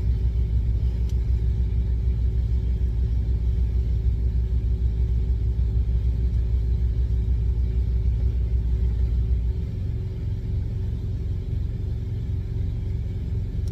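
Semi truck's engine idling: a steady low rumble, whose deepest part drops in level about nine and a half seconds in.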